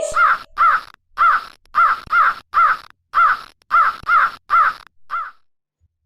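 Crow cawing: about eleven short, harsh caws in quick succession, loosely paired, stopping about five seconds in.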